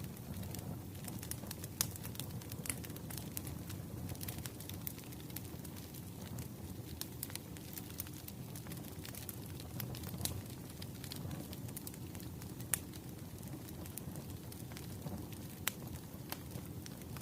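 Wood fire crackling: scattered sharp pops and snaps over a low, steady rumble.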